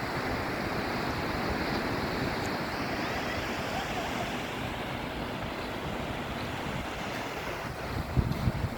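Surf washing onto a beach, a steady rush of waves, with wind gusting on the microphone near the end.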